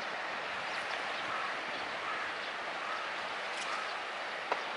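Steady outdoor noise with the fading run of an electric commuter train moving away into the distance, a few short bird chirps, and a single sharp click about four and a half seconds in.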